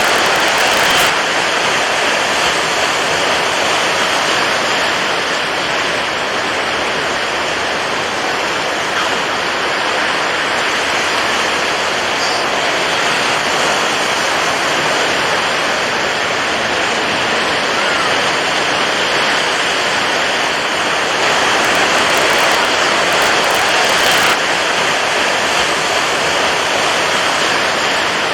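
Water waves making a steady, continuous rushing hiss, swelling slightly right at the start and again about three quarters of the way through.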